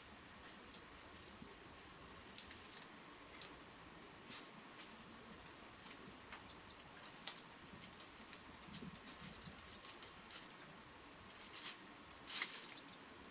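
Irregular light pattering, tapping and scrabbling from a Japanese white-eye at a mirror, with the loudest burst near the end: the bird attacking its own reflection.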